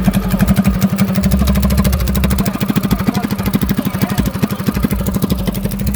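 Mini bike's small engine running at a steady idle, a rapid, even putter of firing pulses.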